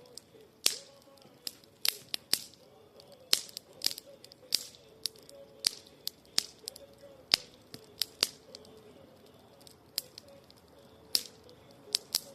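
Wood campfire crackling, with irregular sharp pops and snaps coming a few times a second.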